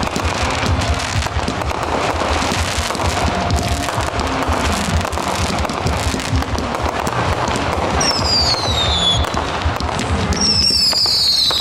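Fireworks display: dense crackling and popping over steady low booms. Two high whistles glide downward, one about eight seconds in and another near the end.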